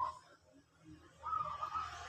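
Zebra dove (perkutut) cooing: a loud coo note cuts off at the very start, then after a pause of about a second a softer, steady held note follows.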